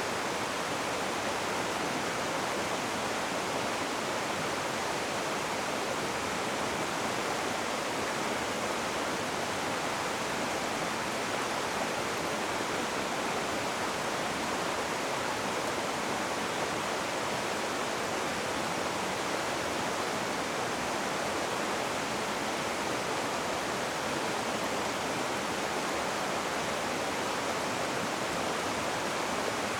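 Rushing water in a steady, unbroken wash of noise, like a stream or a small waterfall.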